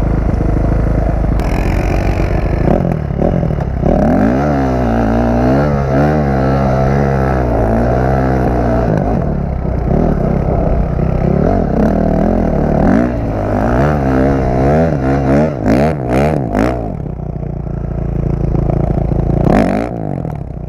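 A 450 four-stroke dirt bike engine idling, then revved hard again and again, its pitch swinging up and down, with quick sharp throttle blips later on. Hard enough to reach the rev limiter.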